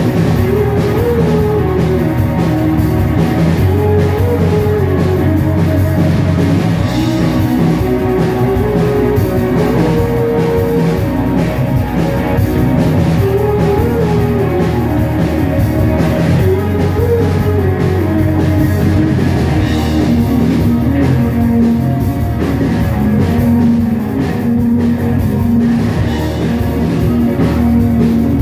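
A rock band playing live, loud and steady: drum kit and guitars, with a melody line rising and falling over them.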